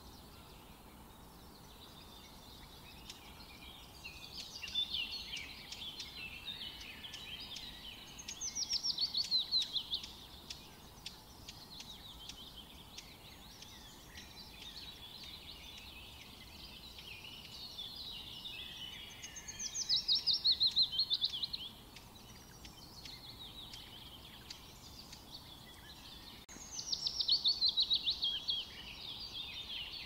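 A songbird singing. Three times, a fast run of notes falls in pitch for about two seconds, with softer chirping in between.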